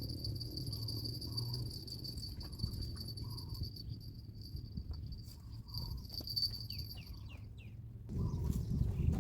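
Insects buzzing steadily in one high drone that stops about seven seconds in, with a few short falling chirps just before it stops. Soft low background noise runs under it and turns into a louder low rumble near the end.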